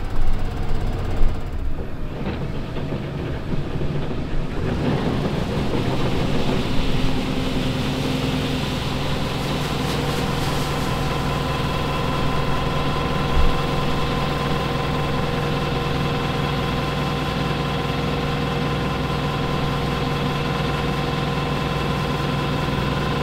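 Diesel engine of heavy harvest machinery running at a steady speed. After about five seconds of rougher, shifting noise it settles into a constant, even drone.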